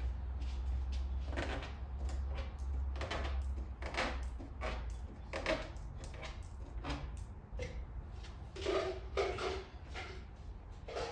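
Workshop handling noises: an irregular run of short scrapes, clicks and knocks as engine bolts and parts are picked up and handled, over a steady low hum.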